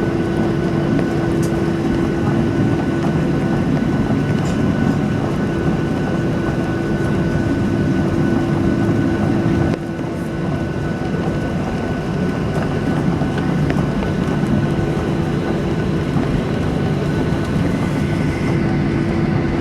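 Steady cabin noise of a Boeing 737-800 with its CFM56 engines running, heard from inside the cabin: a constant hum with a few steady tones and a rushing hiss, dipping briefly about halfway through.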